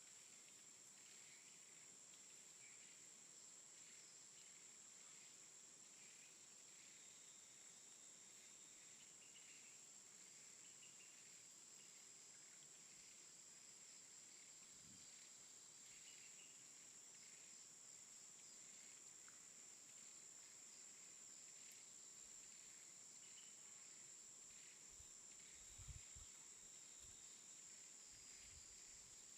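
Near silence: a faint steady high-pitched tone with scattered faint chirps, and a few soft low knocks near the end.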